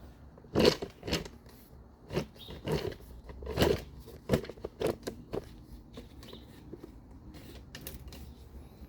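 Tools and engine parts knocking and clinking during hands-on work on a bare engine: a run of irregular sharp clacks, loudest in the first few seconds, then a few lighter taps near the end.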